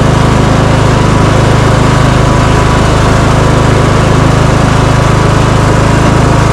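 Small engine of a lawn tractor fitted with a snow plow, running loud and steady under way without any change in speed.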